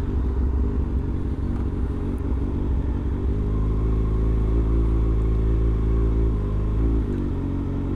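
Kawasaki ZX-6R 636's inline-four engine running at a steady cruising speed under riding, over a low rumble of wind and road; the engine note holds steady for several seconds, then shifts slightly near the end.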